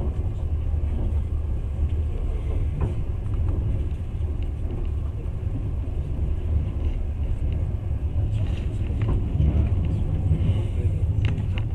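Passenger train running along the track, heard from inside the carriage as a steady low rumble, with a few faint clicks.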